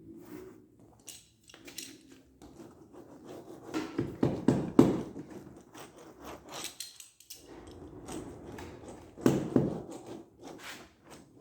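Irregular knocking and rubbing of hands working on the glued rubber fender strip of an inflatable boat, with a loud cluster of knocks about four to five seconds in and another a little after nine seconds.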